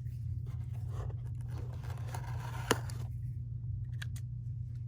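A cardboard model-kit box being opened and handled: light scraping and rustling, with one sharp click about two-thirds of the way through and a couple of small clicks near the end, over a steady low hum.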